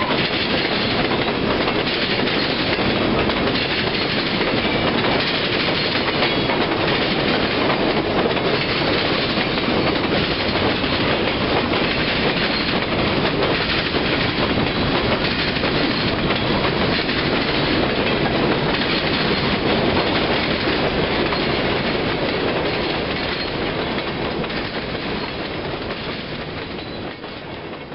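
Freight train cars rolling past at close range, their steel wheels running on the rails in a steady loud rush. The sound fades away over the last few seconds as the end of the train goes by.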